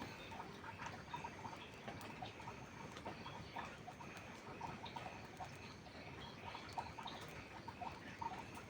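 Steady rain pattering, with the dense irregular ticks and pops of a crackling wood fire.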